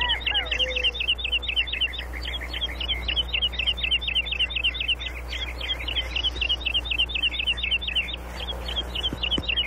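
Songbird chirping in a fast, even series, about seven short high chirps a second: a cartoon bird's song. A few lower whistled glides come in the first second.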